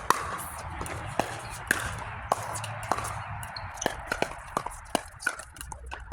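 Pickleball rally: sharp pops of paddles striking a plastic ball, the loudest about every half second to a second, with lighter clicks and taps between them in the second half.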